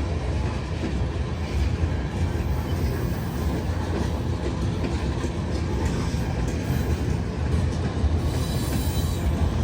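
Freight train cars rolling past, a steady low rumble of wheels on rail, with a brief brighter hiss near the end.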